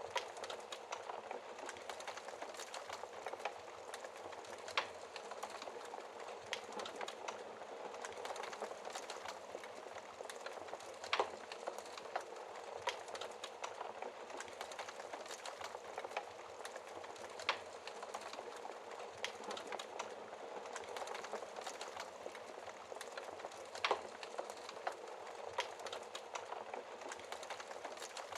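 Wood fire burning in a fireplace: a steady hiss of flames with frequent small crackles and a few sharper pops, roughly every six seconds.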